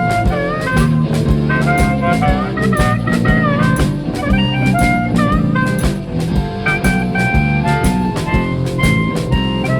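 Live blues band playing an instrumental passage: guitars and bass over a steady drum beat, with a lead line of bending, held notes on top.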